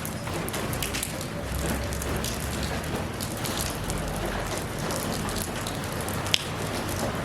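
Steady rain falling, a dense hiss of water peppered with many individual drop hits. One sharper, louder tick stands out about six seconds in.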